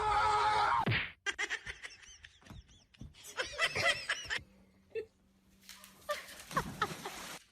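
A person laughing in short, rapid bursts, with quieter gaps between the fits. Before that, a held, pitched sound from the previous clip cuts off suddenly about a second in.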